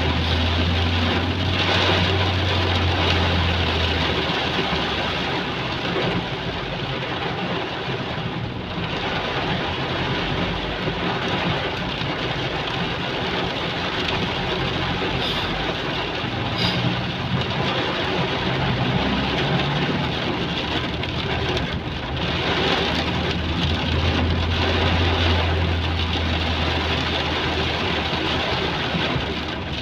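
Heavy rain falling steadily, with a vehicle engine running close by for the first few seconds and again about two-thirds of the way through.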